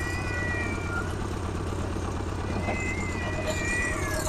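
Small tractor's engine running steadily under load, with drawn-out high squeals sliding slightly down in pitch at the start and again near the end.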